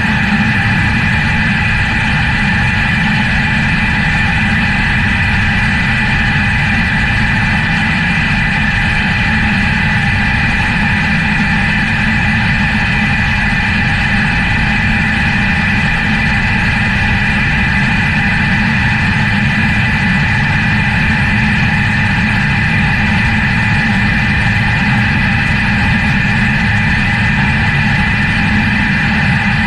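Jet engines running steadily: a constant low rumble with a high whine of several steady tones on top, unchanging throughout.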